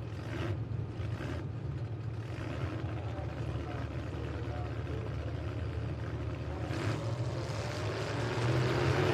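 Engines of derby trucks running in the arena: a steady, low, droning rumble that grows louder near the end.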